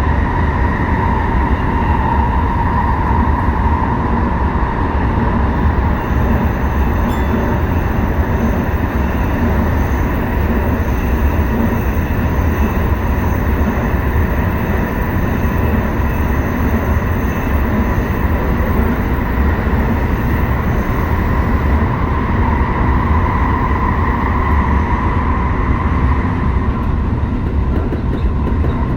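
Tsukuba Express electric commuter train running at speed between stations: a steady rumble of wheels on rail with a steady whine from the traction motors.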